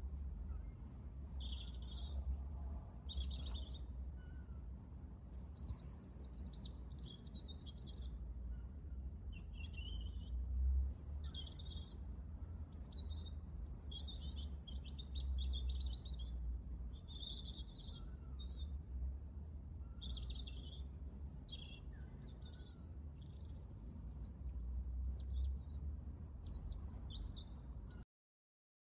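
Small garden birds chirping and singing in short high phrases, one after another, over a low steady rumble. The sound cuts off just before the end.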